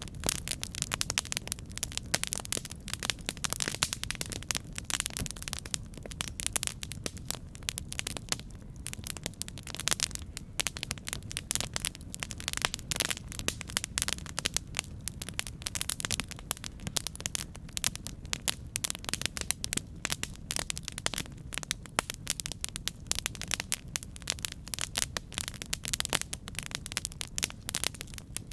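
Campfire burning: dense, irregular crackling and popping of burning wood over a steady low rumble of the flames.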